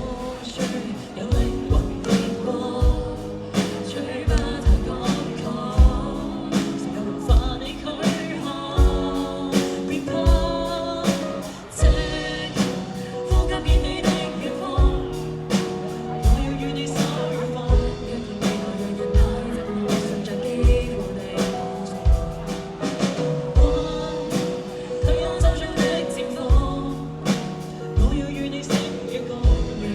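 A live band playing a song with a singer, over a steady drum beat.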